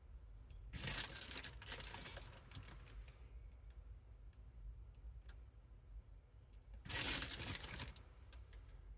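Packaging crinkling and tearing in two bursts, about a second in and again about seven seconds in, with scattered light clicks in between.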